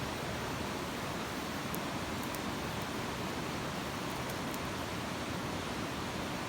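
Campfire burning, a steady hiss with a few faint, light crackles.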